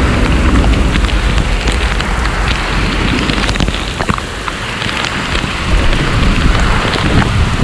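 Heavy tropical rain pouring steadily, with scattered sharp drop hits over a low rumble, easing a little midway before building again.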